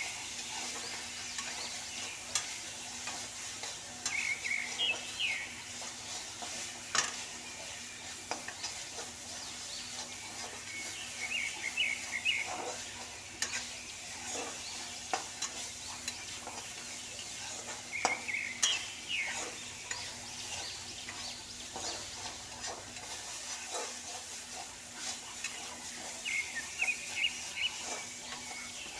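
Chopped onions and a whole tomato sizzling in oil in a kadai, with a metal spatula stirring and scraping, knocking and clicking against the pan.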